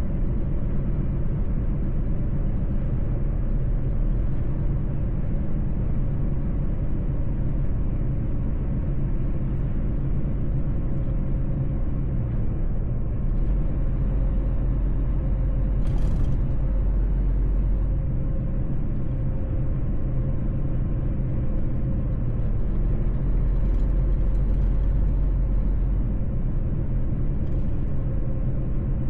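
Mercedes-Benz truck's diesel engine running steadily at cruising speed, with low road rumble. A single short click about halfway through.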